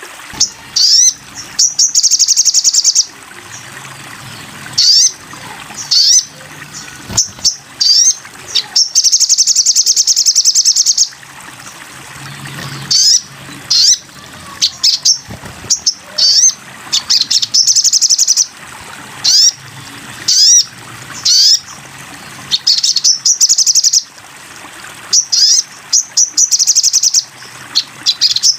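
Sogon (sogok ontong) songbird singing: high, rapid trills of one to two seconds alternating with short, sharp sweeping chirps, repeated over and over.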